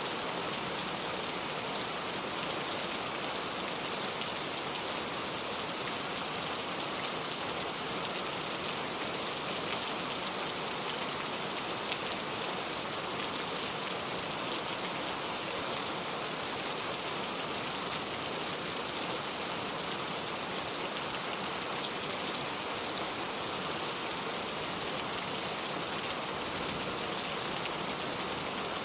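Heavy rain pouring steadily, a dense even hiss of many drops.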